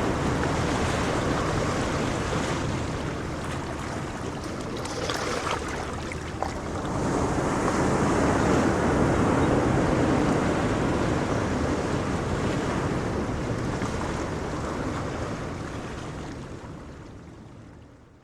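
Ocean waves breaking and washing on a shore, a steady rushing surf that swells again about halfway through, with some wind on the microphone. The sound fades out near the end.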